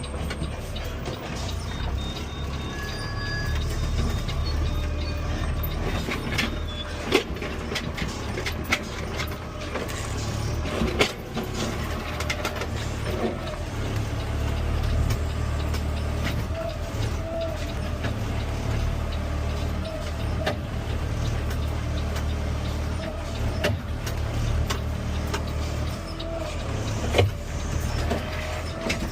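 Garbage truck running, heard from the driver's seat: a steady low engine rumble with a faint whine, and a few sharp knocks and rattles scattered through it.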